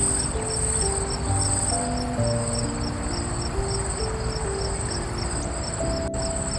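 Crickets chirping: a high, pulsing trill that repeats a little more than once a second, with faster regular ticks beneath it. Soft background music with slow held notes plays underneath.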